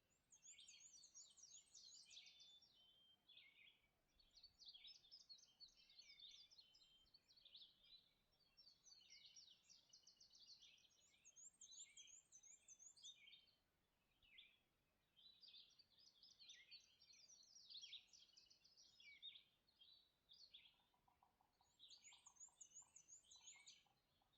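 Faint chorus of several songbirds singing at dawn, with busy warbled phrases throughout. A high, rapid zigzag trill repeats three times, and a short run of lower pulsed notes comes near the end.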